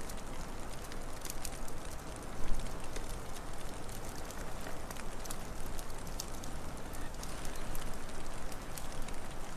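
Wood fire crackling, with irregular sharp pops and snaps over a steady rushing wind-like noise. A louder low thump comes about two and a half seconds in.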